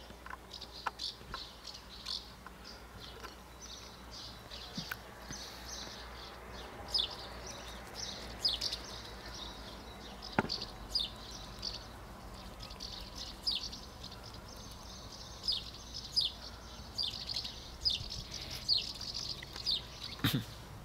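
Small birds chirping, short high chirps repeating over and over, with a single sharp click about ten seconds in.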